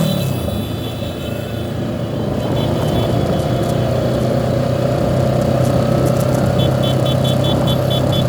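Motorcycle engine running on the road with wind and road noise: the engine note drops right at the start, then holds steady at cruising speed. A quick run of short high beeps comes in near the end.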